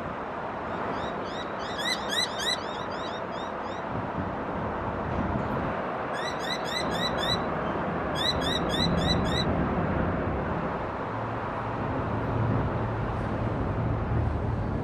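Noisy miner calling in three quick runs of short rising notes, about five a second, over steady truck and traffic noise. A deeper engine hum grows in the last few seconds.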